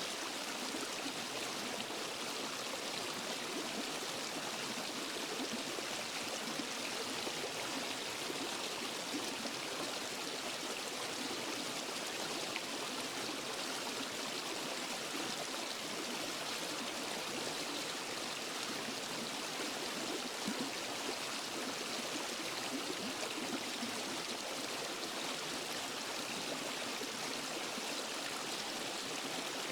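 Water of a waterfall and forest stream rushing and splashing over rocks in a steady, even hiss.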